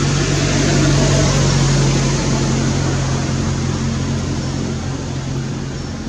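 An engine running steadily, a low hum under a broad rushing noise.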